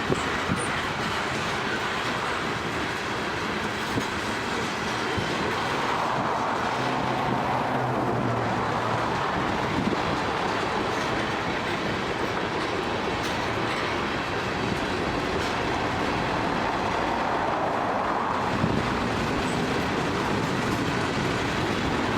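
Freight train rolling past, with a steady noise of steel wheels on the rails throughout.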